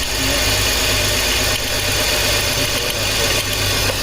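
2004 BMW X3's 3.0-litre inline-six idling steadily with its cylinder 1 coil pulled, so cylinder 1 is not firing; the engine has a cylinder 1 misfire.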